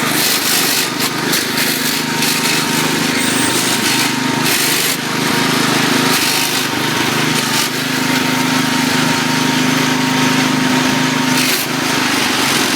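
1972 IH Cub Cadet 128 garden tractor's engine running steadily, with short bursts of clatter about four seconds in and near the end.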